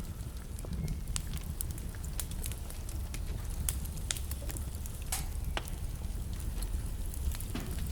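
Wood fire burning in a fireplace: a steady low rumble of the flames with irregular crackles and sharp pops of burning logs, one louder pop about five seconds in.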